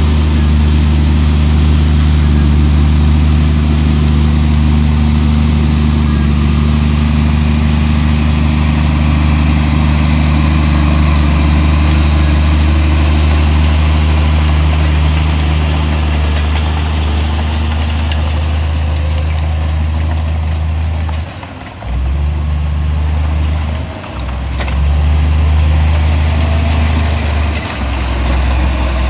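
Heavy diesel engine of earthmoving equipment running steadily with a deep, loud hum. It dips briefly three times in the last third, as the throttle eases off and comes back.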